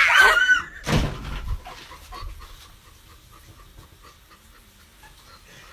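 A dog makes a short, loud pitched whine at the start and again about a second in, then pants quietly and rhythmically.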